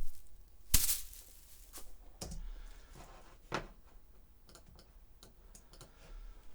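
Foley grass being thrown down: a brief dry rustling crash about a second in, then light rustles, a sharper crack about halfway, and scattered small clicks.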